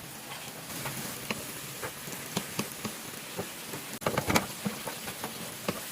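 Chicken and vegetables sizzling in oil in a pan over high heat, a steady hiss with scattered pops and crackles and a short burst of louder crackling about four seconds in.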